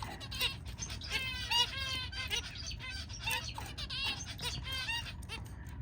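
Zebra finches calling: many short, repeated chirps, several birds overlapping, with a low steady hum underneath.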